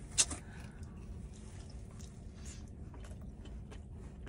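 Faint chewing of a mouthful of cheese pizza, with one sharp click about a quarter second in, over a low steady background rumble.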